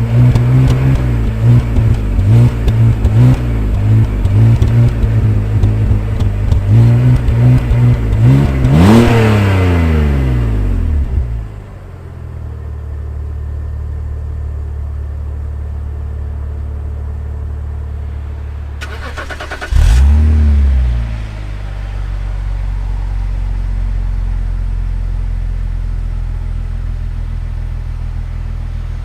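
BMW X3 E83 3.0i's M54B30 straight-six, through its stock exhaust with the flap deactivated, revved in neutral: a run of quick revs, one higher rev that falls back to a steady idle about a third of the way in, then a single sharp blip near the middle and idle again.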